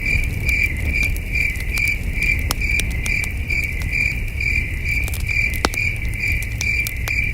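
Crickets chirping steadily in an even rhythm of about two chirps a second, over the low rumble of a campfire with a few sharp crackles, one louder snap about five and a half seconds in.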